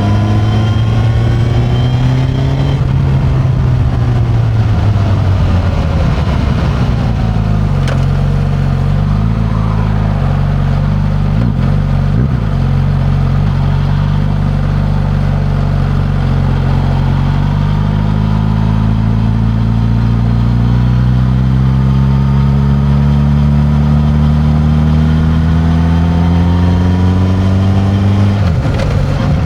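Suzuki GSX-S1000 inline-four engine through its stock exhaust while riding: the revs rise briefly, ease off over the next few seconds, hold low and steady, then climb steadily from about eighteen seconds in, dropping suddenly near the end as at a gear change.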